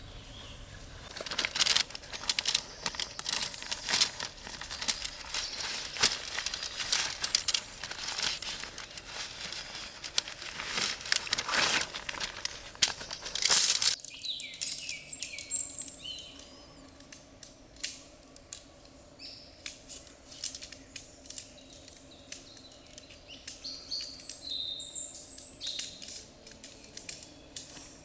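Busy crinkling and crackling handling noise, many sharp clicks close together, for about half the time. It stops abruptly and gives way to quieter ambience with birds chirping over a faint steady hum.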